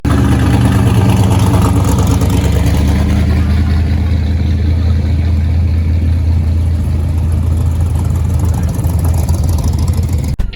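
A car engine idling steadily with a deep, even exhaust note; it cuts off abruptly near the end.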